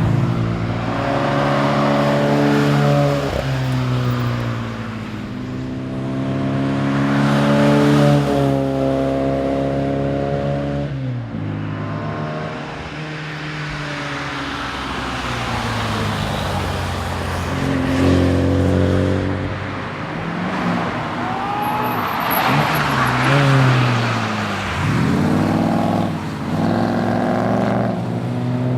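Morris Mini Cooper S's A-series four-cylinder engine driven hard, its pitch climbing under acceleration and dropping sharply at each gear change or lift, several times over.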